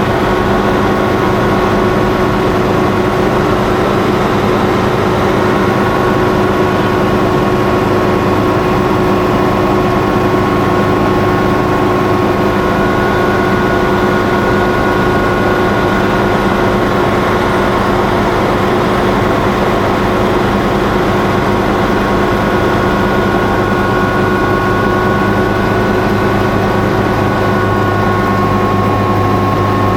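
Helicopter running steadily close by, a loud continuous engine and rotor sound holding several fixed tones with no rise or fall.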